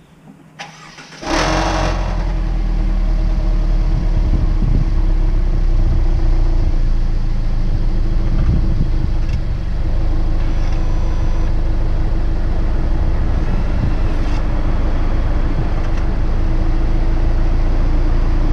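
Mercedes-Benz W205 C200's turbocharged four-cylinder petrol engine starting cold: it catches about a second in and then runs steadily and loudly. At a cold start this car gives a loose, clattering rattle from the left rear, caused by the packing inside the rear muffler box having come apart.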